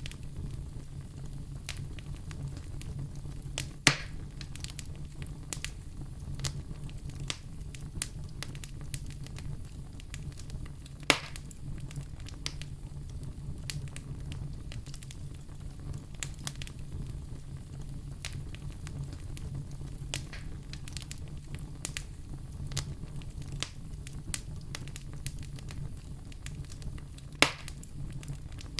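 Fireplace fire crackling with a steady stream of small clicks and snaps over a low rumble, with three louder pops spread through.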